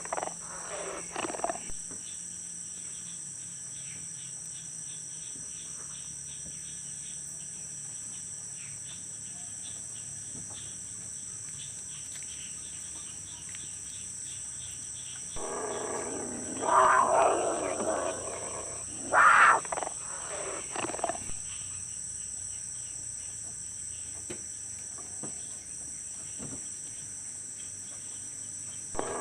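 Growl-like animal calls, heard clearly and likened to a wild beast's growl, from a goat pen. A short group comes right at the start, and a longer run of several follows from about 15 to 21 seconds in. A steady high insect chorus runs underneath throughout.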